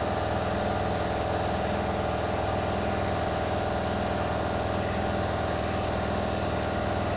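A motor running steadily at an even speed, a constant hum with no change in pace.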